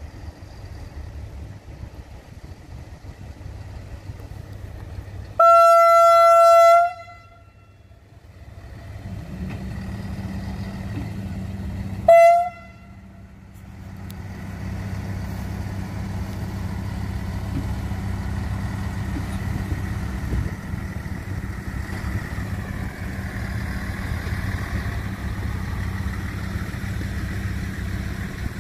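Siemens Desiro diesel multiple unit sounding one long single-tone horn blast about five seconds in and a short toot about seven seconds later. Its diesel engine drone then grows louder as the train draws up and passes close by.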